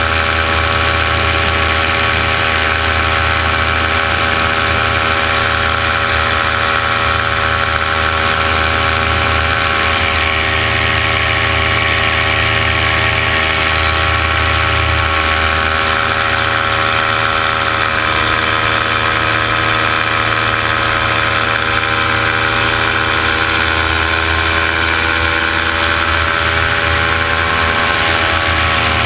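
Drone's motors and propellers humming steadily at an even pitch.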